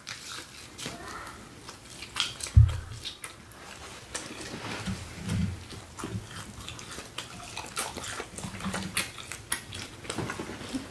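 Close-miked wet chewing and lip-smacking of people eating tender smoked turkey leg meat, with many small clicks. One dull low thump about two and a half seconds in.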